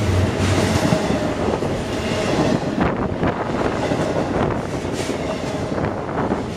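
Double-stack container freight train rolling past at speed close by: a loud, steady rumble and rattle of steel wheels on rail. There are sharp clacks scattered through, and a faint wheel squeal in the first two seconds.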